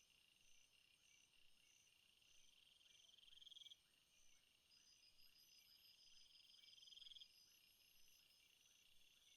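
Faint chorus of night insects in a rainforest, crickets or katydids trilling in several pulsed, high-pitched calls at once. One trill swells steadily louder and stops abruptly, twice, about three and a half seconds apart.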